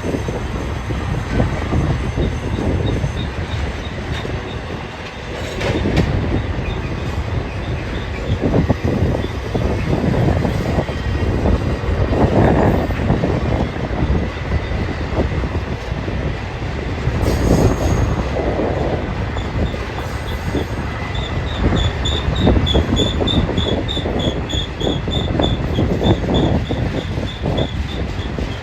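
BNSF freight train cars rolling past with a continuous rumble and wheel clatter. From about two-thirds of the way in, a wavering high squeal from the wheels joins it.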